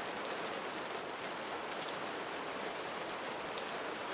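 Steady soft rain falling, an even hiss with no single drops standing out.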